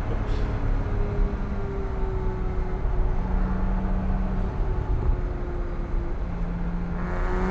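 Porsche 987.1 Cayman S's 3.4-litre flat-six running at light throttle over a steady road rumble, its note sagging slightly, then rising under acceleration about seven seconds in.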